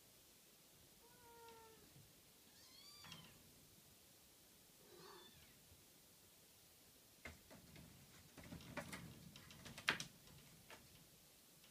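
Kitten mews: three short, high-pitched calls in the first five seconds. In the second half there is a run of sharp clicks and taps, the loudest about ten seconds in.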